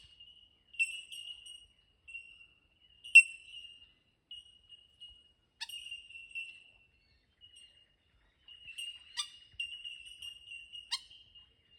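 Bell miners (bellbirds) calling: clear, ringing, bell-like 'tink' notes from several birds, repeated at irregular intervals, with the notes crowding together near the end.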